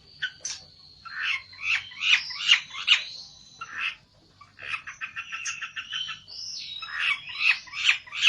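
A pelentet songbird singing hard in an agitated, challenging burst: fast chattering, scratchy notes, a thin whistle near the start, and an even rattling trill of about nine notes a second around five seconds in.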